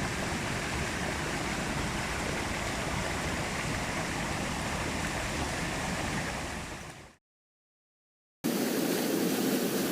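Mountain stream water rushing steadily. It fades out about seven seconds in, falls silent for a little over a second, then comes back fuller and deeper.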